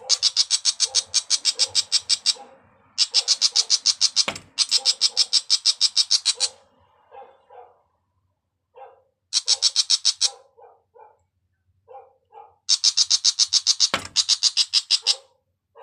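An agitated bird calling in harsh, rapid chattering runs of about seven notes a second. Five bursts of one to two and a half seconds are separated by scattered softer, lower notes. Two sharp knocks stand out, one a little over four seconds in and one near the end.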